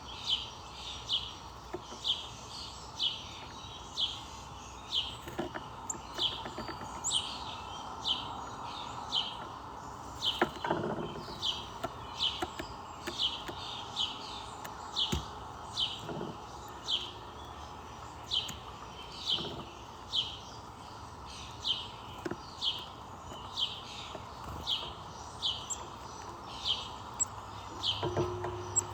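A bird chirping over and over, short falling high-pitched calls at about one a second, some in quick pairs, over a steady background hiss.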